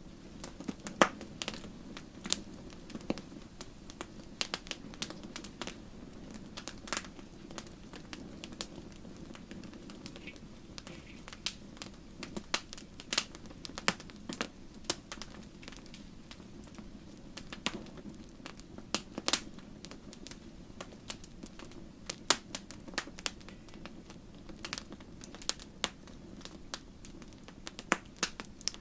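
Wood campfire crackling, with sharp irregular pops and snaps several times a second over a steady low background noise.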